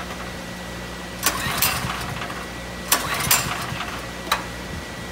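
Ryobi portable gas generator's recoil starter pulled twice, about a second and a half apart, with a sharp click near the end. The hard-starting engine cranks without catching.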